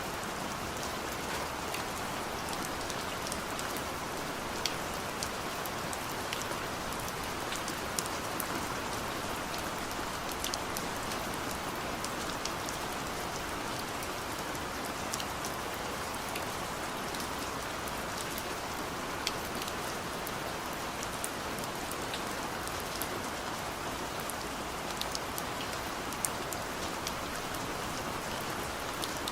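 Steady rainfall, an even hiss of rain with scattered sharper drop ticks throughout.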